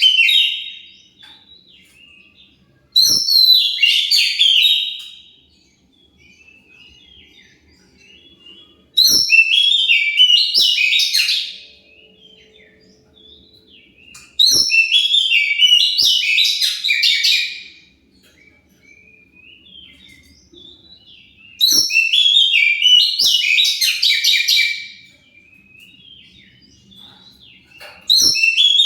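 Oriental magpie-robin (kacer) song in loud bursts of rapid, varied phrases, each about two to three seconds long and coming roughly every six seconds. Faint chirps fill the gaps between bursts.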